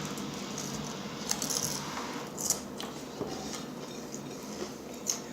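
A few scattered light clicks and rattles of small things being handled at a table, the sharpest about two and a half seconds in, over a low steady hum.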